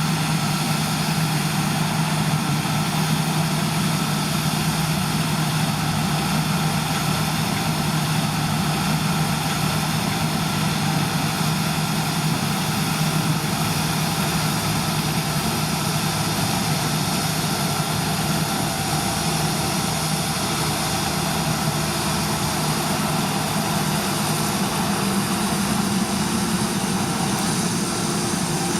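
Large diesel farm machinery running steadily, with a constant engine hum and a dense even mechanical noise that doesn't change.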